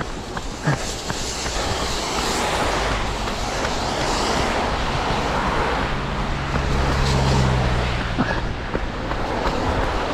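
Steady rushing noise with a low mechanical hum that swells through the middle and fades near the end, over a few faint running footsteps.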